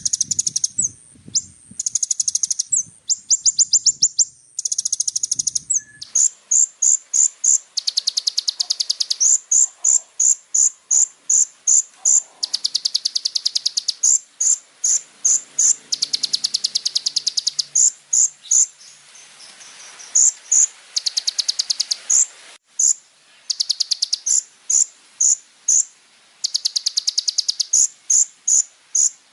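Kolibri ninja sunbird singing a fast, high-pitched song: buzzy rapid trills of about a second each alternating with runs of separate sharp chirps, about two a second.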